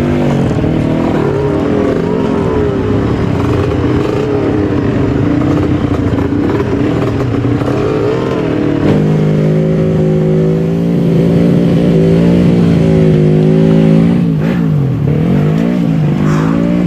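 Trail motorcycle engine being ridden off-road, its revs rising and falling with the throttle. About halfway through it settles into a steadier, higher note, then drops and climbs again near the end.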